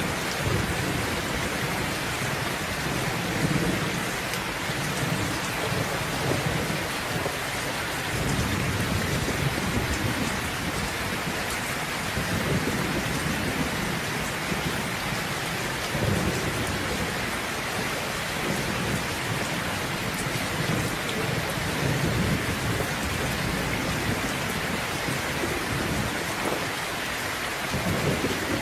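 Steady rain hissing, with low rolling thunder rumbles that swell and fade several times.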